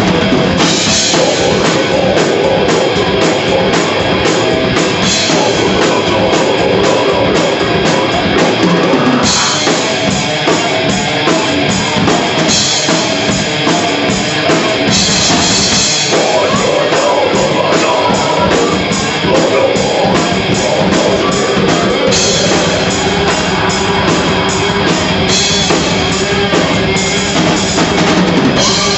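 A death metal band playing live: distorted guitars, bass and a drum kit with fast, steady cymbal strokes, loud and continuous, the riff changing several times.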